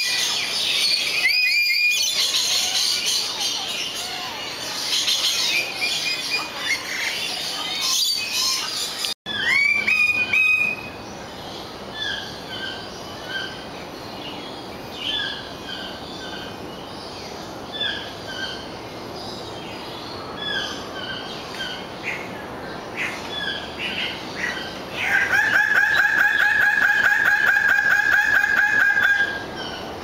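Several birds calling: loud chirps and rising whistled calls at first, then many short chirps. Near the end a loud call repeats rapidly and evenly for about four seconds.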